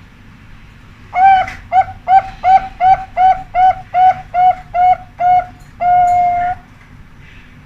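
Zebra dove (perkutut) singing: a fast string of about ten short coos, roughly three a second, closing on one long drawn-out final note, the 'ujung' end note that perkutut contests prize.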